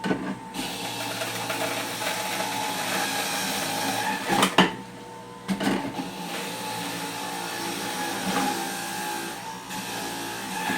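Electric juicing machine's motor running on fruit, with a sharp knock about four and a half seconds in; it stops for about a second and then starts again.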